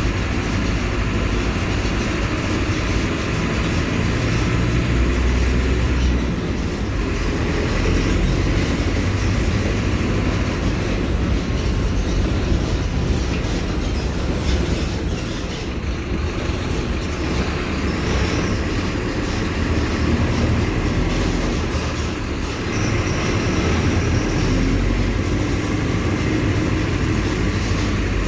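Mercedes-Benz OF-1721 Bluetec 5 city bus's diesel engine running, its low rumble swelling and easing several times, with rattling throughout.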